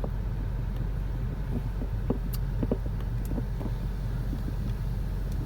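The cabin of a car in a LaserWash M5 touchless automatic car wash during the pre-soak stage: a steady low rumble with a faint wash of spray and a few light ticks of liquid hitting the body.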